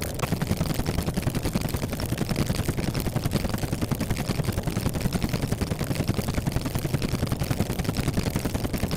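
A rapid, even mechanical rattle, about ten pulses a second.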